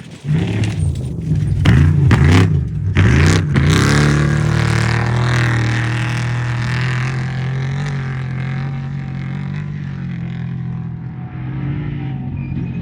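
Off-road race vehicle's engine revving hard, its pitch surging up and down several times in the first few seconds. It then holds a steady note that slowly fades as the vehicle moves away.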